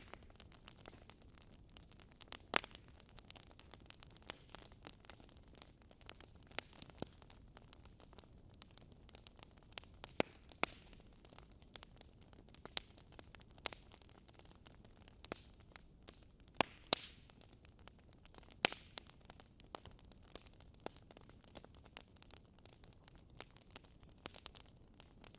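Wood fire crackling in a fireplace: irregular sharp pops and snaps over a low, steady hiss, with a few louder snaps standing out.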